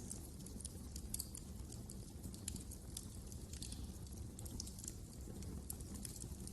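Wood fire crackling: frequent small, irregular snaps and pops over a low steady rumble of the burning fire.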